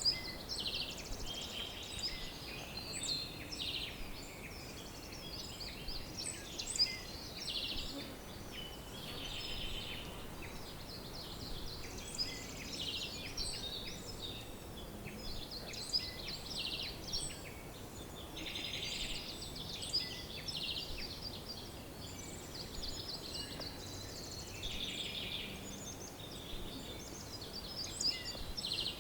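Birdsong chorus: several songbirds chirping and trilling at once, in short overlapping high calls and rapid trills, over a faint steady background noise.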